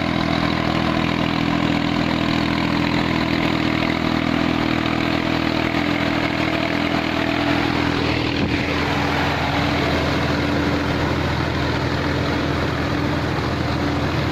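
Tractor engine running steadily to drive an air-blast sprayer's belt-driven blower fan: a steady engine hum under a continuous rush of air. The engine note shifts slightly about eight seconds in.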